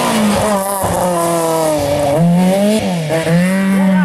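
Rally car engine at high revs on a special stage, its pitch rising and falling sharply as the driver lifts off and shifts gears, then holding high and steady near the end.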